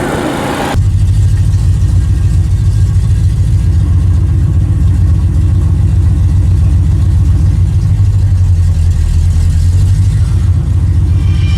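Car engine running at a steady speed, a loud, low, even drone with no revving, starting abruptly about a second in.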